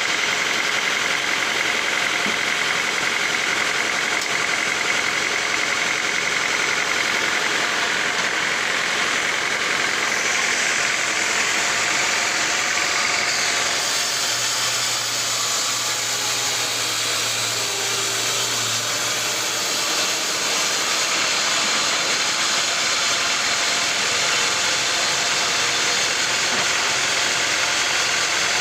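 Sawmill machinery running steadily, with a thin high whine for roughly the first ten seconds that then gives way to a broader, brighter hiss.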